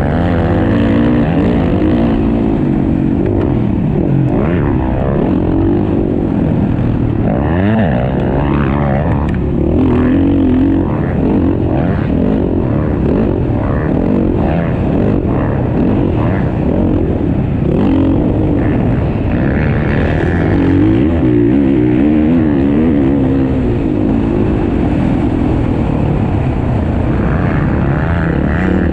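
Several motocross dirt bikes racing together, their engines revving up and falling off again as the riders throttle and shift, the pitches overlapping and constantly changing.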